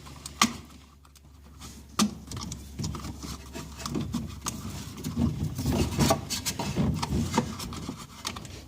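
Hand work on a windshield washer pump: scattered metal clicks, knocks and scraping as parts are worked loose. A sharp click comes about half a second in and another about two seconds in, and the clicking and rubbing grow busier for the last few seconds.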